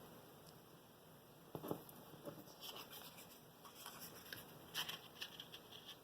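Faint, scattered light taps and paper rustling as small cards are handled and pressed onto a glued paper strip, starting about a second and a half in.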